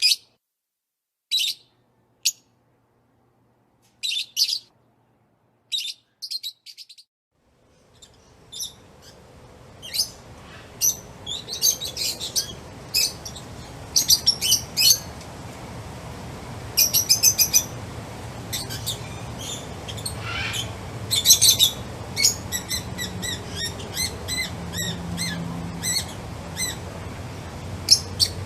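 Songbirds chirping in short bursts of high notes. For the first seven seconds or so, separate chirps stand out against silence; from about eight seconds a steady low background noise comes in, and the chirps grow denser and overlap.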